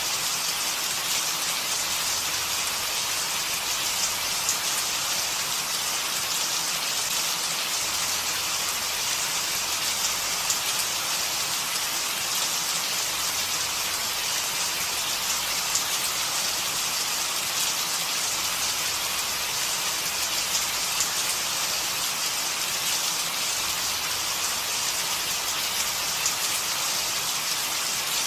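Steady rain falling, an even hiss with many fine drop patters.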